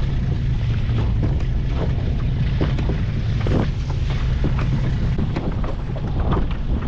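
Wind buffeting the microphone aboard a small boat under way at sea, with water noise and a low steady drone underneath.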